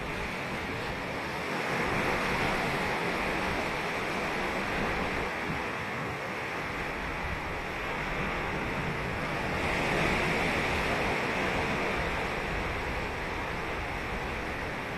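Ocean waves breaking and washing up a sandy beach, a steady rush of surf that swells about two seconds in and again about ten seconds in. Some wind on the microphone.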